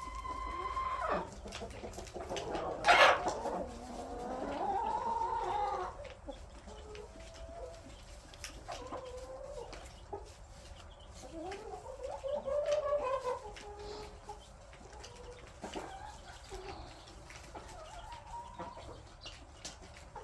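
A backyard flock of chickens clucking and calling over one another. A hen holds one drawn-out call in the first second, and a loud, sharp squawk comes about three seconds in.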